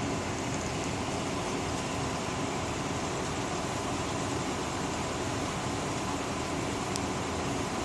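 Steady rushing noise of a storm's heavy rain and wind, with one faint tick near the end.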